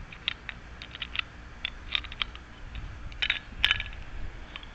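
Small metal door-lock parts clicking and rattling as the lock is worked back together by hand, irregular light clicks with one louder click about three and a half seconds in.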